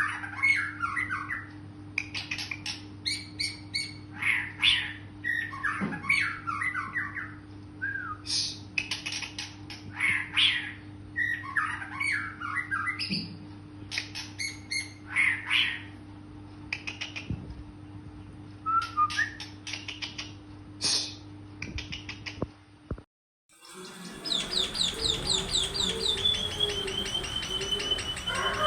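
Bird calls: short, harsh chattering phrases repeated every second or two over a steady low hum. About 23 seconds in, the sound cuts to a different bird's rapid run of high, falling whistled notes.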